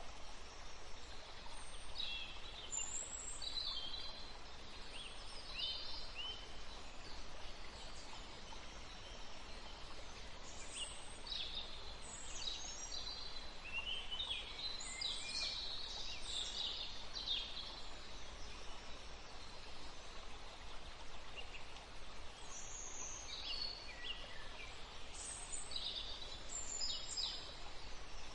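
Small birds chirping and twittering in quick high notes over a steady outdoor hiss. The chirping comes in three spells: near the start, through the middle, and near the end.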